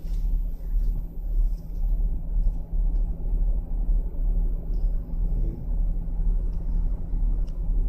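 Low, steady rumble of a car engine idling, heard from inside the cabin.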